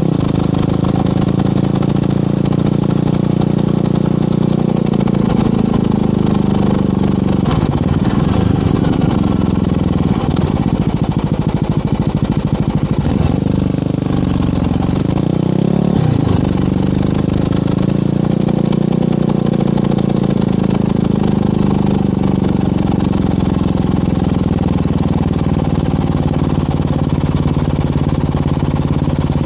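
Yamaha WR250R single-cylinder engine through an FMF Powercore 4 muffler while riding. Its pitch drops and climbs again several times with throttle and gear changes, over a steady rush of wind noise.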